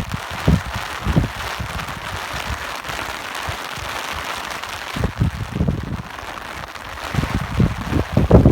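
Steady rain hiss with gusts of wind rumbling against the microphone, the gusts dying down in the middle and returning, stronger, near the end.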